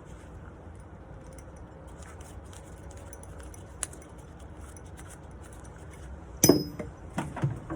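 Small metal ticks and clicks of drawer-handle hardware being taken off a wooden nightstand. About six and a half seconds in comes a sharp metallic clink with a brief ring, then a few lighter knocks.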